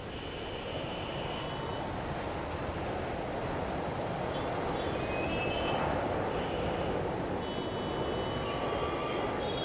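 Steady vehicle rumble fading in, with a few faint short high squeals over it.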